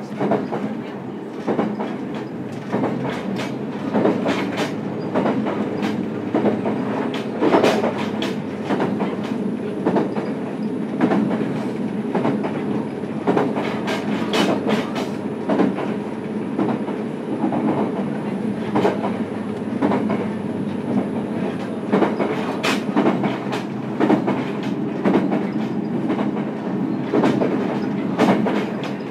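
Running noise heard from directly above the traction motor of a JR Kyushu YC1 series hybrid diesel-electric railcar: a steady drone, with the wheels clacking over rail joints at irregular intervals. A faint thin high whine comes in about seven seconds in and cuts off about three-quarters of the way through.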